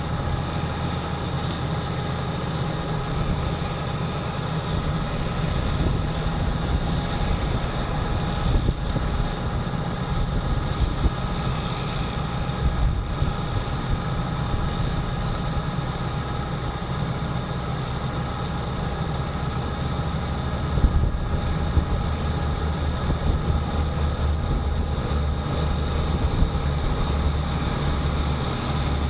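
Tractor engine running steadily under load, heard from inside the cab, with a constant low rumble, steady whining tones and a few light knocks.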